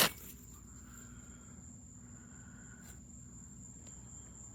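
Quiet outdoor background with a steady, high-pitched insect trill, like a cricket, and a couple of faint, softer sounds about one and two seconds in.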